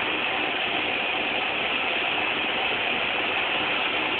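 Steady running noise of a Manitowoc 4600 Ringer crane's engine and machinery, heard inside the operator's cab as the boom is lowered.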